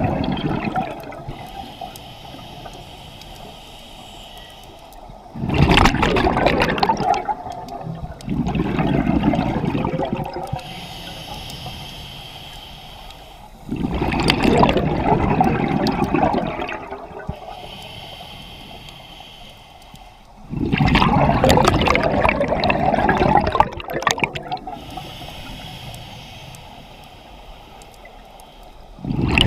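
Scuba diver breathing through a regulator underwater: a soft hiss on each inhale, then a loud rush of exhaust bubbles on each exhale, in a slow rhythm of roughly one breath every seven or eight seconds.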